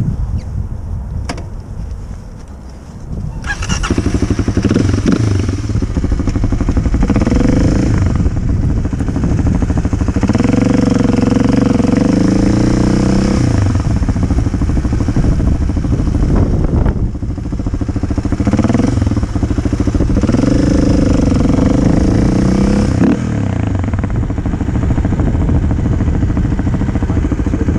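Kawasaki KLX250 single-cylinder dirt bike engine running, coming in loudly about three and a half seconds in after some wind noise. It revs up and drops back repeatedly as the bike accelerates and shifts, with two longer runs of rising pitch.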